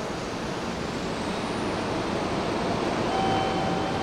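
Hanshin Railway train running at the station platform: a steady rumbling noise that grows slightly louder, with a thin steady whine coming in about three seconds in.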